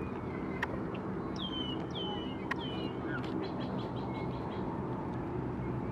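A small bird calling: three downward-slurred chirps about half a second apart, starting just over a second in, then a quick run of short high notes. A steady low rumble runs underneath, with a couple of sharp clicks.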